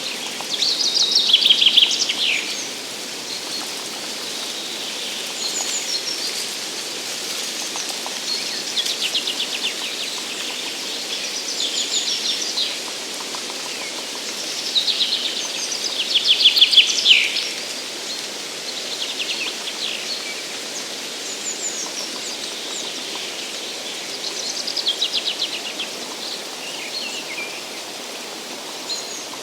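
Songbirds singing, with short trilled phrases repeated every few seconds. The phrases are loudest near the start and about halfway through, over a steady background hiss.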